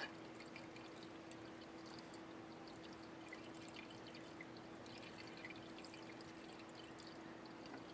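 Faint trickle of drain-line cleaning chemical being poured into an air conditioner's condensate drain pipe, over a low steady hum.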